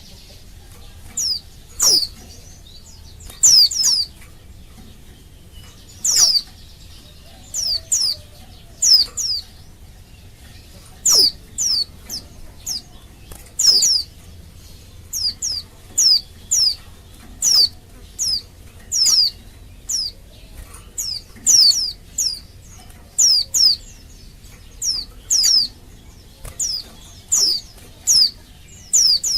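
Female white-eye (pleci) calling: short high notes that sweep quickly downward, given singly or in quick runs of two or three, every second or two. It is the call of a female in breeding condition, used as a lure to set male white-eyes singing.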